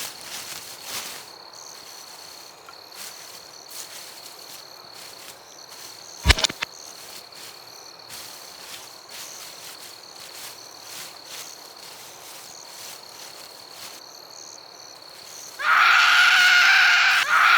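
Crickets chirping, a steady high trill made of quick pulses, with one sharp loud click about six seconds in. Near the end a loud, held cry breaks in over them.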